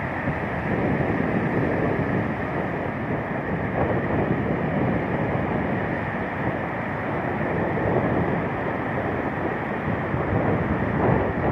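Strong wind buffeting the microphone over the steady rush of stormy sea surf.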